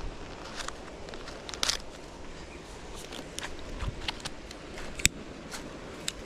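Irregular sharp clicks and crackles over a faint steady background noise, with one louder click about five seconds in.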